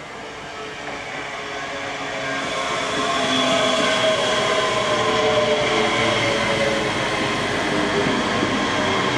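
Train approaching and passing, growing louder over the first three seconds and then holding loud, with a steady whine of several tones over the rumble of the wheels.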